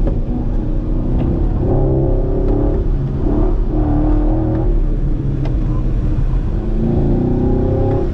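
Chevrolet Camaro's engine heard from inside the cabin during an autocross run, its pitch rising and falling several times as the driver accelerates and lifts between cones, over steady tyre and road noise.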